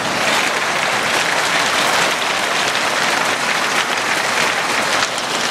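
Heavy hail pelting down, a dense, steady clatter of hailstones that comes in abruptly at full level.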